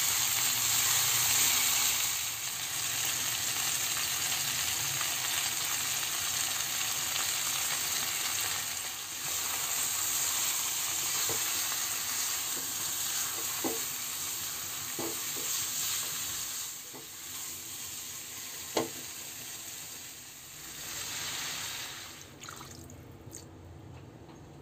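Chicken pieces sizzling in hot oil in a nonstick wok, stirred with a spatula that scrapes and knocks against the pan a few times. The sizzle dies down near the end.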